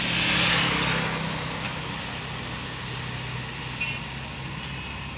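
Diesel engine of a heavy earthmoving machine running steadily, with a loud hiss in the first second that fades, and a short click about four seconds in.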